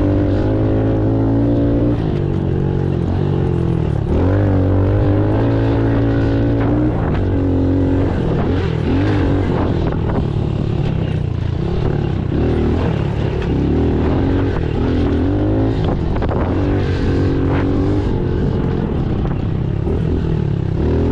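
Pit bike engine running hard under riding, its pitch holding steady, then dropping and climbing again every couple of seconds as the throttle is worked.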